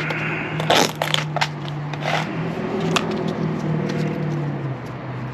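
Small metal parts being handled: a series of sharp clicks and scrapes as cotter pins are picked out and sorted for size, over a steady low hum.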